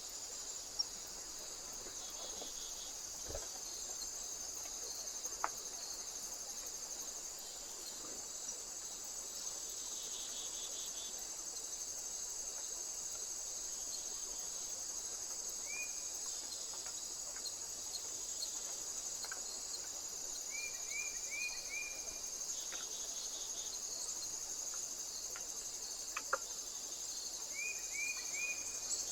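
Steady high-pitched chorus of crickets or bush-crickets, with fine rapid pulsing. Twice in the second half, and once briefly before, a short run of three or four quick chirps rises above it, and there are a few faint clicks.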